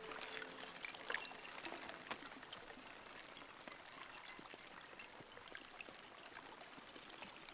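Faint water lapping and trickling, with many small splashes and drips, busiest in the first two seconds and then settling. A few held music notes end within the first second.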